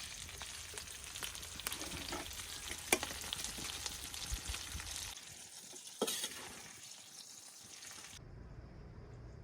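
Food frying in a pan with a steady sizzle, punctuated by sharp clicks of a utensil against the pan. The sizzle cuts off abruptly near the end.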